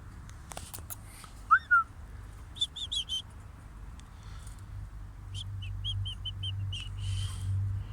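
Cage birds chirping: two loud, short slurred calls about a second and a half in, then quick runs of high chirps, the longest in the second half. A low steady hum runs beneath them.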